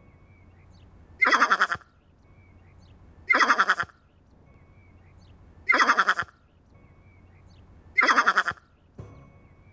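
Four short, wavering animal calls of about half a second each, spaced about two seconds apart.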